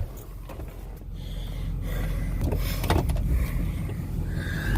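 A vehicle's engine running with a low, steady rumble that slowly grows louder, with a few light clicks and rattles.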